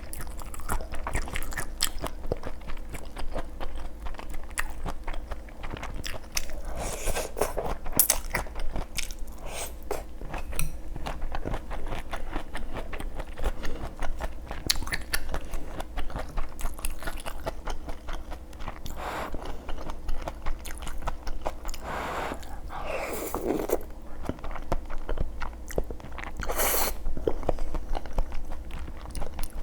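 A person eating close to the microphone: chewing and biting with crunchy, wet mouth sounds, mukbang-style.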